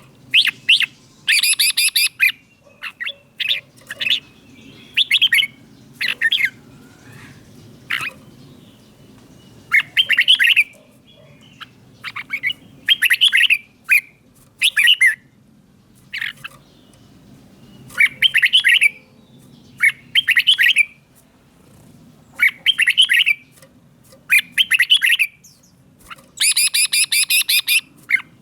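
Red-whiskered bulbul singing: short, bright, warbling phrases repeated every one to three seconds, with a few louder, harsher phrases, the longest near the end.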